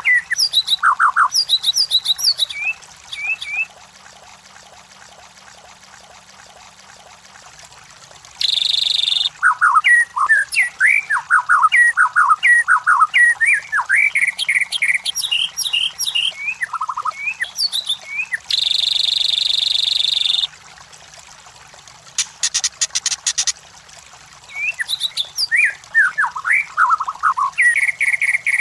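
White-rumped shama (murai batu) singing: rapid phrases of sweeping whistled notes in three bouts with pauses of a few seconds between, broken by two harsh buzzing notes and a short dry rattle.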